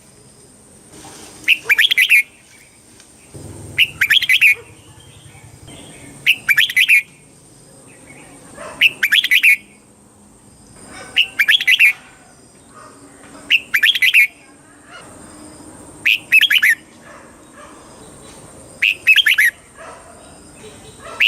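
Red-whiskered bulbul singing: short, bright warbled phrases repeated about every two and a half seconds, eight times.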